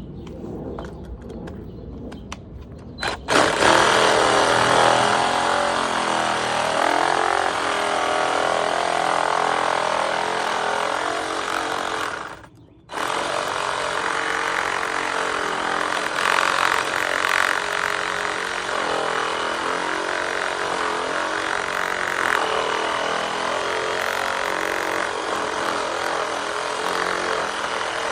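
Power tool cutting into the plastic housing of a Frigidaire refrigerator water filter cartridge. It starts about three seconds in, stops briefly near the middle and starts again.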